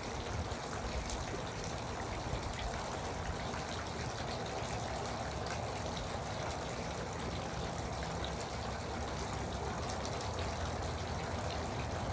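Garden water fountain running steadily, water splashing and trickling into its basin.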